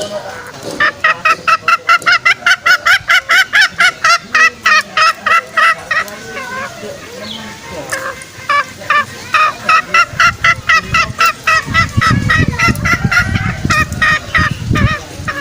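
Green junglefowl lure calls: long runs of fast, evenly repeated clucking notes, about five a second, in two bouts with a short break between them. A low rumble runs under the second bout.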